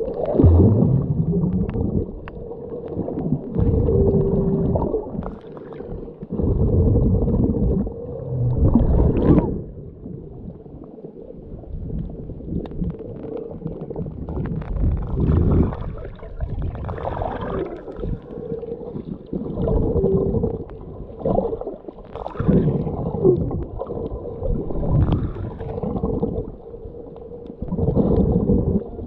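Muffled water sloshing and gurgling around a camera held in the sea while snorkeling, swelling and fading every two to three seconds.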